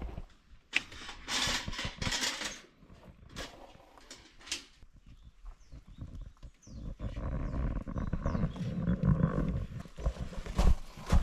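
Firewood being handled for a campfire: rustling and crackling bursts with sharp wooden knocks, growing denser about seven seconds in, with several sharp knocks near the end.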